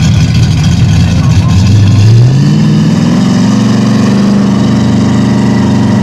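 Drag race car engine with a lumpy rumble that revs up about two seconds in and then holds a steady, higher rpm.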